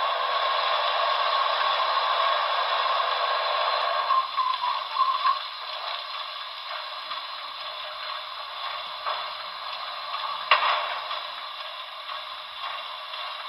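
Paragon4 water-fill sound effect from an HO model steam locomotive's small onboard speaker: a steady rush of water into the tender that drops off about four seconds in, followed by quieter hiss with scattered clanks, the sharpest about ten seconds in.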